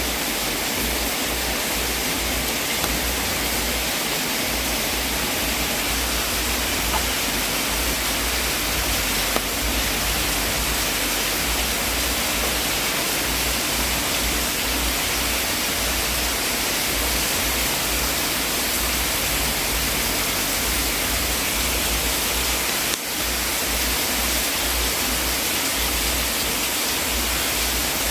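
Steady, even rushing hiss of a fireplace sleep-sound track, with no distinct crackles; the sound dips briefly about 23 seconds in.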